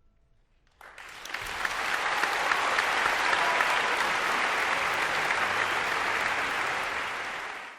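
Audience applauding: steady, dense clapping that begins about a second in after a brief silence and fades, then cuts off near the end.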